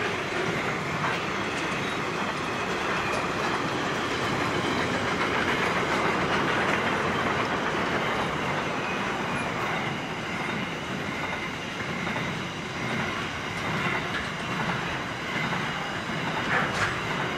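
Freight wagons of a long container train rolling past: a steady rumble of steel wheels on rail, with a few sharp clicks.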